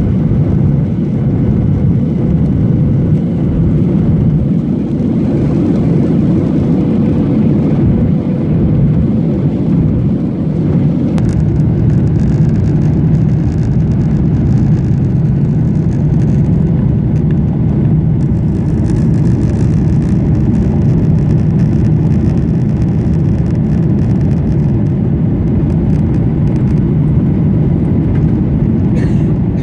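Steady low rumble of a Boeing 737-800's CFM56 jet engines and airflow, heard from inside the passenger cabin. A faint steady hum sits above the rumble for the first ten seconds or so.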